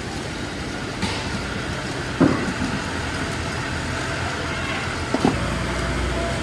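An engine running steadily, with two sharp knocks, about two and five seconds in; a deeper low hum sets in near the end.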